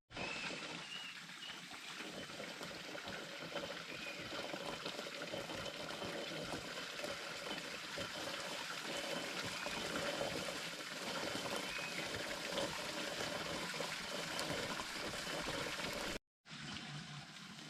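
Steady trickle of running water, with a short cut to silence near the end.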